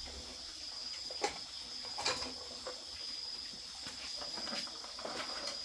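Crickets chirring steadily in a continuous high-pitched trill, with a few short sharp knocks over it, the loudest about one and two seconds in.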